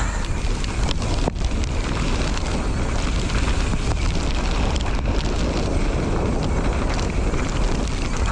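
Wind rushing over the camera microphone of a mountain bike riding downhill, with the tyres rolling on a wet dirt trail and the bike rattling. A sharp knock comes about a second and a half in.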